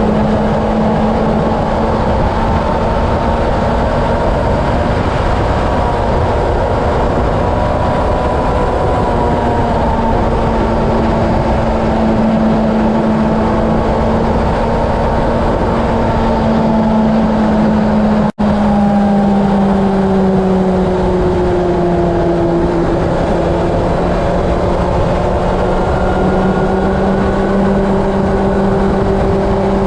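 Honda CB750 inline-four engine running at a steady highway cruise, its note drifting slightly in pitch, under heavy wind noise on the camera's microphone. The sound drops out for an instant about eighteen seconds in.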